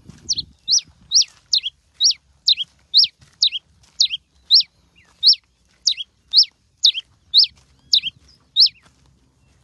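Pileated finch (cravina) singing: a long run of sharp, downslurred notes repeated about two to three times a second, stopping shortly before the end.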